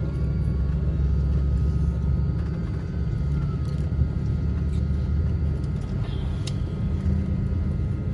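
Steady low rumble of an airliner's jet engines heard inside the passenger cabin, with a faint steady whine above it, while the plane is on the ground before take-off.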